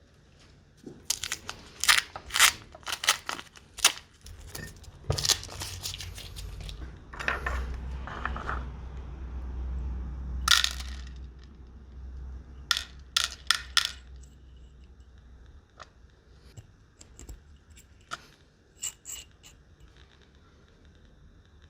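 Small metal parts clinking and knocking as they are handled and set down on a workbench, in irregular clusters of sharp clicks, with a low hum underneath for a few seconds in the middle.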